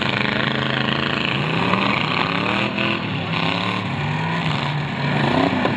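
Demolition derby car engines revving, their pitch rising and falling again and again as the cars manoeuvre.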